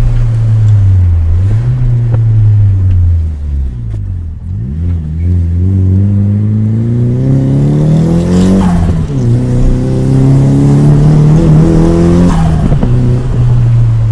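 Nissan S15 Silvia's turbocharged SR20DET four-cylinder engine pulling hard, its revs climbing, then dropping abruptly twice, about two-thirds of the way in and near the end. Each drop comes with a short rattly turbo flutter as the throttle lifts.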